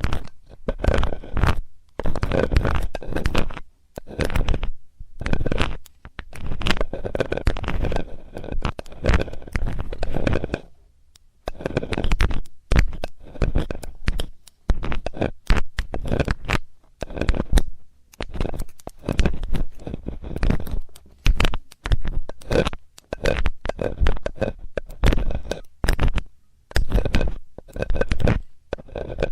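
Ear-cleaning ASMR: a metal tool scraping and rubbing right at a microphone's ear, in loud, irregular strokes with a deep rumble, pausing briefly about eleven seconds in.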